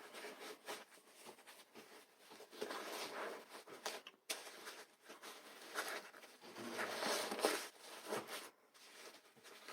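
Irregular rustling and brushing of fabric being handled and tucked into place by hand, a burp cloth being pushed into the slit of a foam pool noodle.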